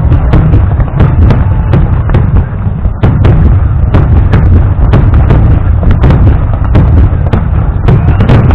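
Fireworks display: a loud, dense barrage of shell bursts, with several sharp bangs a second over a continuous low rumble.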